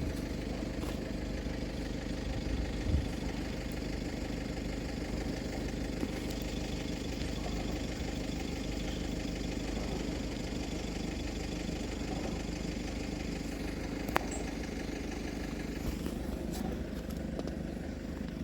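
A steady low engine hum, an engine idling without change, with a couple of faint knocks.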